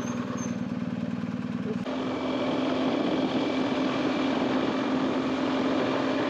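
BMW R1250GS boxer-twin motorcycle engine running steadily, with an abrupt change in its sound about two seconds in.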